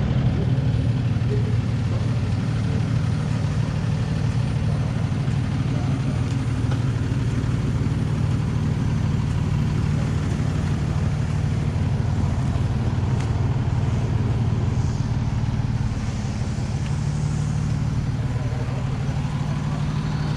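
2018 Ford F-150's 5.0 V8 running steadily through a newly fitted MBRP cat-back exhaust, a low, even exhaust note. It gets slightly quieter about sixteen seconds in.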